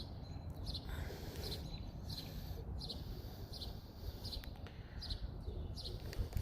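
A bird chirping repeatedly, short high chirps about one and a half a second, over the low rumble of wind on the microphone.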